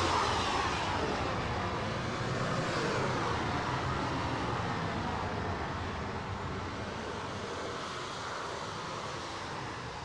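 Radio-controlled model F-16 jet flying past and away: its engine whine falls in pitch after the pass and the rushing noise fades steadily.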